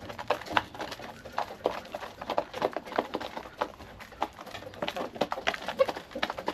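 Chickens clucking, amid many quick, irregular taps and clicks.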